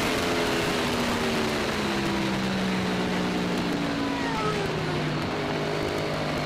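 Racing motorcycle engine heard from on board, its revs falling slowly and then holding at a lower, steady pitch as the bike slows down, over steady wind rush.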